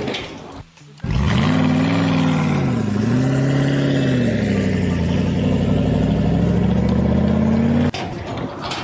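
An engine running under changing load: its pitch rises, dips briefly, then holds steady. It starts abruptly about a second in and cuts off suddenly near the end.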